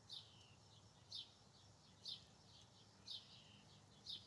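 A bird calling: a short, high call that drops in pitch, repeated about once a second, five times.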